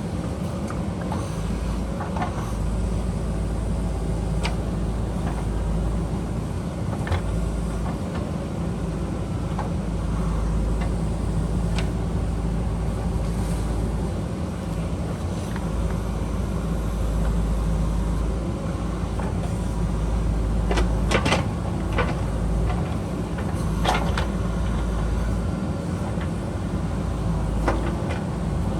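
JCB backhoe loader's diesel engine running steadily under load while digging, with scattered sharp knocks and clanks from the bucket and rock, a cluster of them about two-thirds of the way in.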